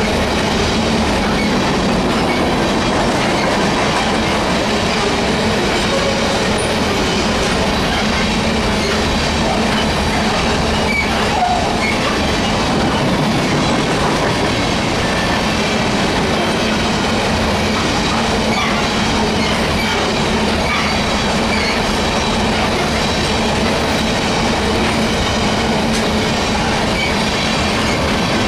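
Freight train cars rolling past with steady, continuous wheel-on-rail noise.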